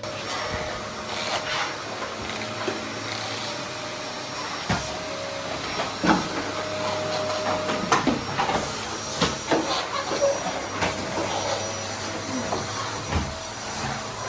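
A steady hissing rush with a faint whine, broken every second or so by knocks and clatter.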